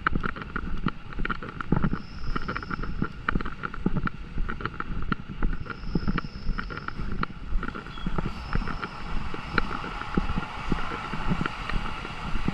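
Wind rumbling on the microphone, with many small irregular taps and clicks throughout.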